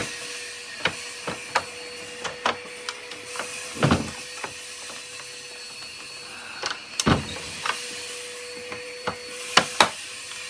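Irregular clicks and knocks of a Hoover vacuum cleaner's plastic parts being handled and fitted together by hand, with a faint steady hum underneath.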